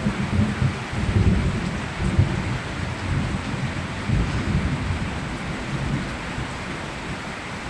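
Steady rain falling, with a low rolling rumble of thunder that dies away over the last couple of seconds.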